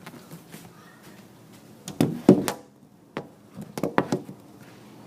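A series of sharp knocks and taps, a cluster around two seconds in, the loudest, and another just before four seconds.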